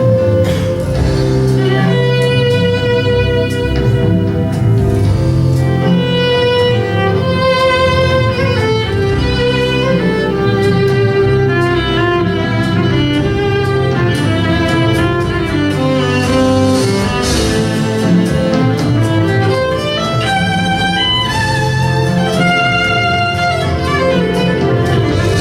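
Violin (fiddle) playing a melody of held and moving notes over a sustained low accompaniment.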